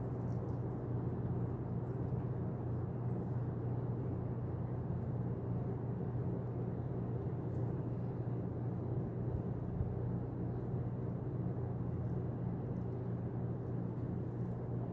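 Steady low rumble with a few faint high ticks.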